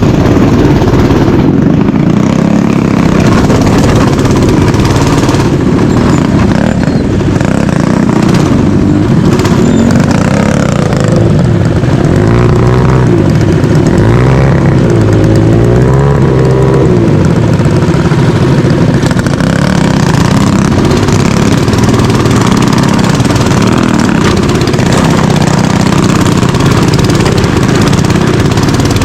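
Mini bike engine running loudly under way, its pitch rising and falling as the throttle is worked, with a stretch of quick revving about halfway through.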